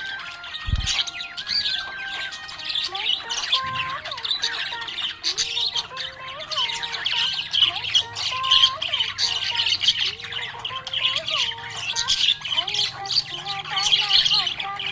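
Budgerigars chirping and warbling in a dense, continuous chatter of quick high chirps.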